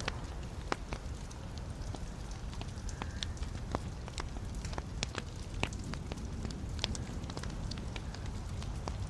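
Wood fire burning in a fireplace: burning logs give off irregular crackles, snaps and pops over a steady low rumble.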